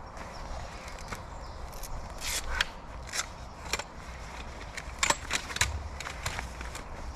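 Folding camp chair being taken out and opened up: scattered clicks, knocks and rattles of its frame and legs, loudest about five seconds in.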